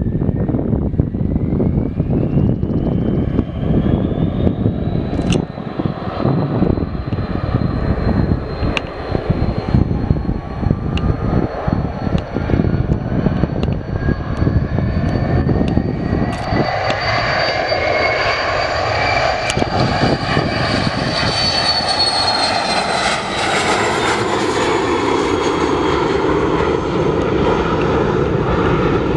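Gulfstream G200 business jet's twin turbofan engines at takeoff power. A rising whine runs over a heavy rumble, then falls in pitch over the last several seconds as the jet passes.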